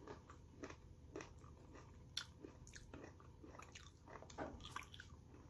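Faint, irregular crunching of someone biting and chewing crisp persimmon slices.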